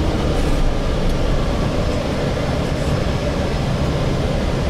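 Steady rumble of a Gillig Phantom transit bus heard from inside the cabin, its engine and running noise even and unbroken.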